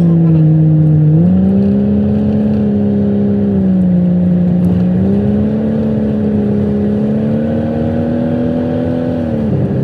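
Car engine running steadily under way, its pitch stepping up and down with the throttle and dropping near the end.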